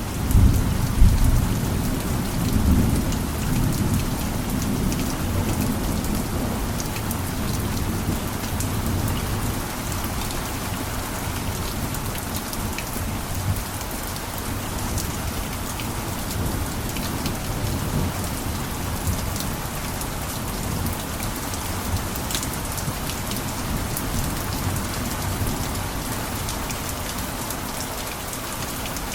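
Steady heavy rain falling on a roof, with scattered sharp drop ticks. A deep low rumble is strongest in the first few seconds and then eases off.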